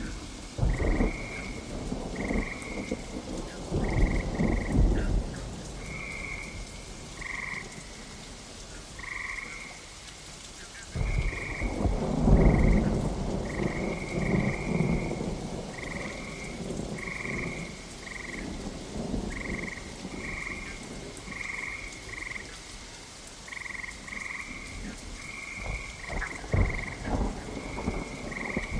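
Steady rain with rolling thunder: several rumbles, the longest and loudest starting about 11 seconds in. An animal calls throughout in short repeated notes, about one a second.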